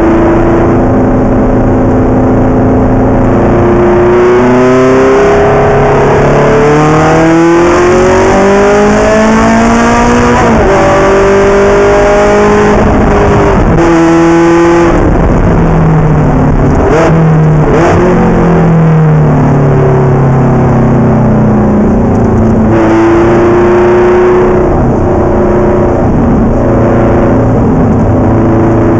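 Ferrari race car engine, loud, revving hard. Its pitch climbs, then drops suddenly at each gear change, with several shifts in a row in the first half. Later it winds down in falling glides and runs steadier near the end.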